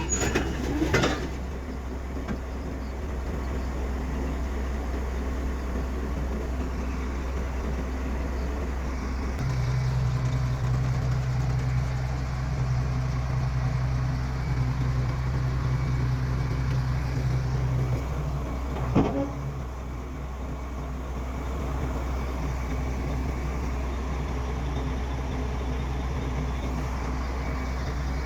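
Diesel engine of heavy earthmoving machinery running with a steady low rumble. It grows louder and heavier for about eight seconds starting roughly ten seconds in, as under load. Two short sharp clanks come, one right at the start and one about 19 seconds in.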